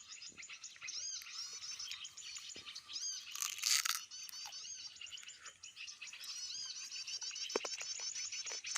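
Small birds chirping and trilling in rapid, overlapping runs of short high notes, with a brief rustling crunch about three and a half seconds in.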